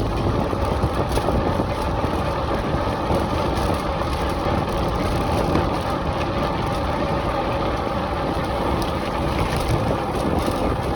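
Steady rush of wind on the microphone, with the road noise of a bicycle being ridden fast.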